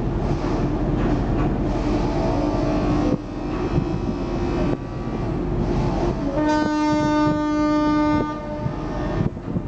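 Ferry's horn giving one blast of nearly two seconds as the ship leaves port, over the steady low rumble of the engines and wind.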